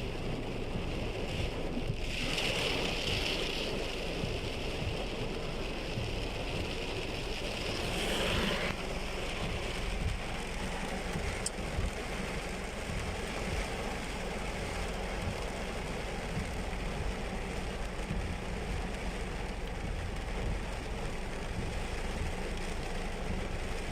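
Car driving through a flooded road in heavy rain: a steady wash of rain and water, with two brief louder swells of water rushing about two and eight seconds in.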